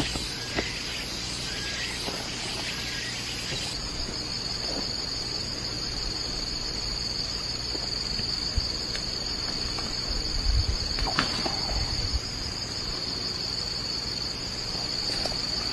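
Forest insects droning steadily in a high, even chorus, which changes character about four seconds in. A few soft low thumps and clicks of handling sound over it around the middle.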